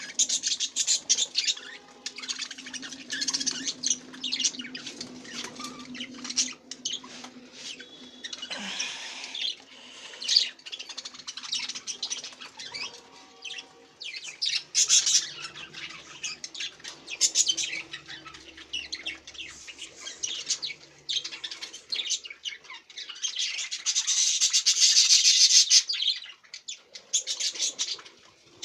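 Small pet parrots (love birds) chirping and squawking in a continuous run of rapid, high calls, with a louder, denser stretch of chatter about 24 seconds in.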